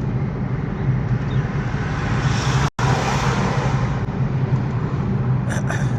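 Steady engine and road noise of a car driving, a continuous low hum. It cuts out for an instant about halfway, and a few faint clicks come near the end.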